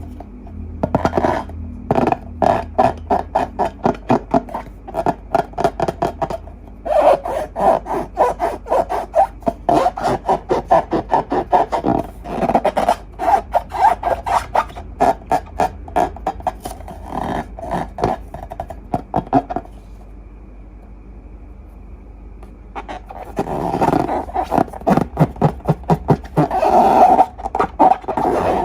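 Slime being squeezed and worked by hand, a dense run of wet clicks and small pops. It pauses for a few seconds about two-thirds of the way through, then starts again.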